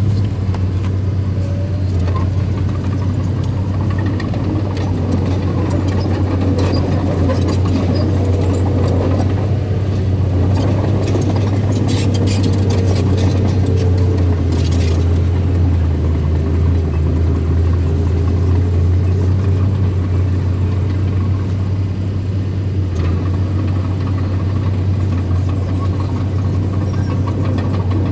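Small bulldozer's engine running steadily with a deep hum. A run of metallic clanks and rattles comes about halfway through.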